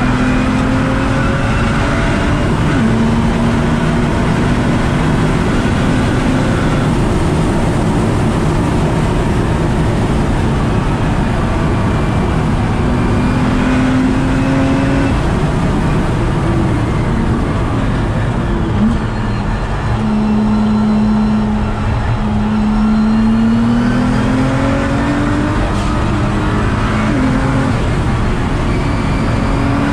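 Nissan GT-R R35's twin-turbo V6 heard from on board at speed on a racetrack, its note rising and falling through gear changes under hard acceleration and braking, over constant road and wind noise.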